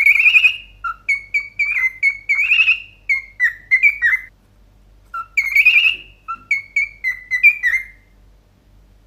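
Cockatiel whistling two phrases of short, clear notes, some sliding up or down in pitch, with a pause of about a second between the phrases.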